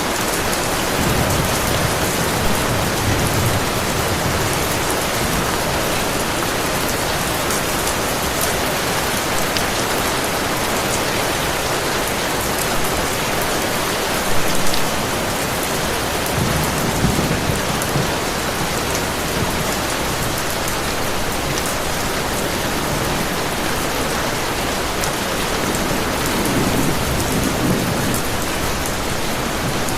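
Heavy rain falling in a steady hiss, with low thunder rumbling in and fading away a few times.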